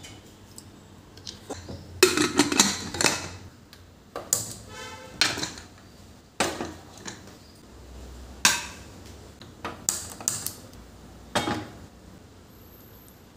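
Dishes and metal kitchen utensils being handled and set down. A quick run of clatters comes about two seconds in, then separate clinks and knocks follow about a second apart, one of them ringing briefly.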